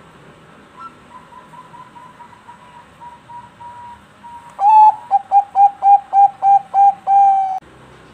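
Zebra dove (Thai-bred 'perkutut bangkok') singing. A faint string of soft coos is followed, about halfway through, by a loud run of about ten quick coos ending on a longer held note.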